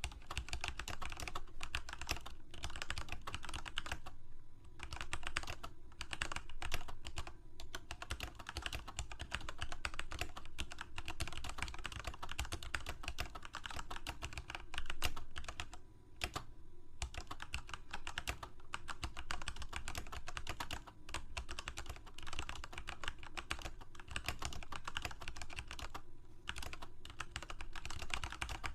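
Continuous typing on a computer keyboard: a rapid, uneven patter of key clicks with brief pauses every few seconds.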